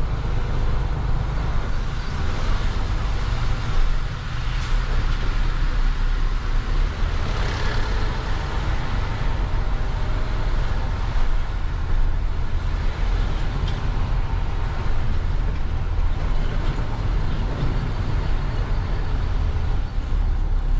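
Truck driving, a steady low rumble of engine and road noise.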